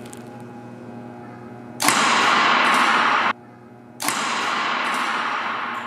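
A compound-bow arrow hitting the Cybertruck's stainless-steel body. About two seconds in there is a sudden loud hit followed by a long noisy wash that cuts off sharply. A second sudden hit comes after four seconds, and its noise fades slowly. The impact shatters the arrow and flattens its broadhead tip.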